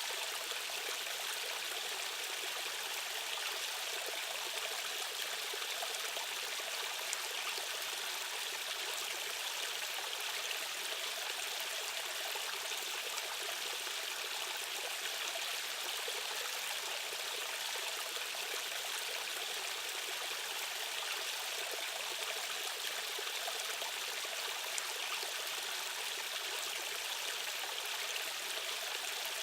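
Steady rushing of stream water, an even hiss with little low rumble that does not change.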